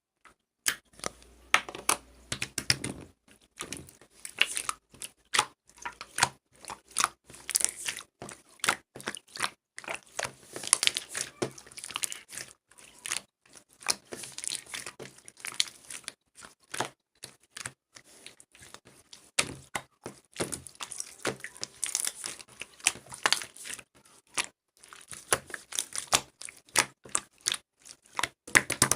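Close, irregular crinkling and crackling, like something being crumpled or torn by hand, in quick clusters of sharp little clicks.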